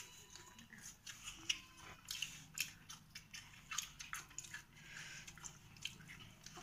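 Faint chewing and lip-smacking of people eating rice and curry with their hands, heard as irregular short smacks and clicks.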